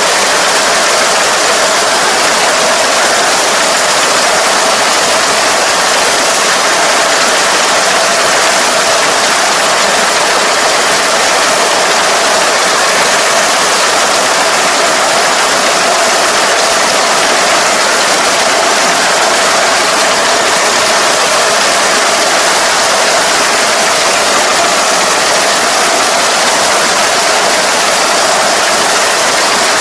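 ER470 combine harvester running steadily under load, its engine and threshing machinery making a continuous, even noise.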